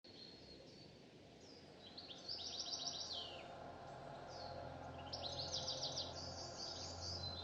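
A small songbird singing: two quick trilling phrases of rapid chirps, about two and five seconds in, over a faint low hum.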